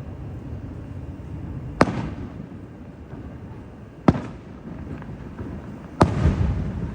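Firework display: three sharp bangs of bursting shells about two seconds apart, each trailing off in a rolling rumble, over a continuous low rumble.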